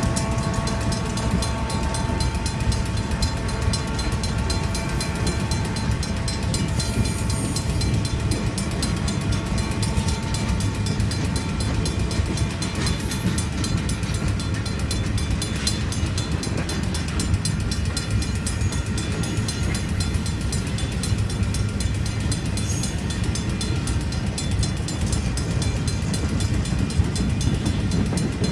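Union Pacific freight train's cars rolling steadily through a grade crossing, with a continuous low rumble and the clatter of wheels over the rails. A crossing signal's mechanical bell rings rapidly and steadily, as it does while the gates are down.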